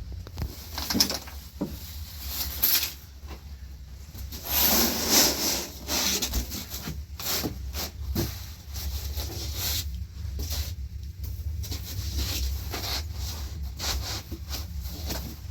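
Rustling and scraping handling noises with scattered short knocks; a longer scraping stretch about five seconds in is the loudest.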